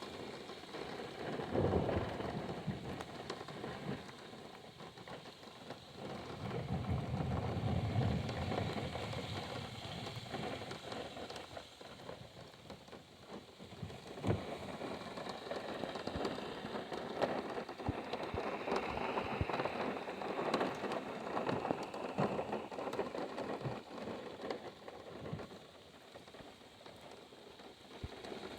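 Rain pattering on a car's roof and windshield, heard from inside the car, with many sharp drop ticks. Thunder rumbles twice: briefly about two seconds in, then a longer roll from about six to ten seconds in.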